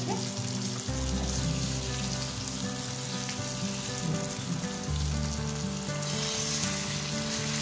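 Egg masala sizzling in a frying pan while a nylon slotted spatula turns and breaks up the fried eggs in the spiced gravy. Soft background music with long held notes plays underneath.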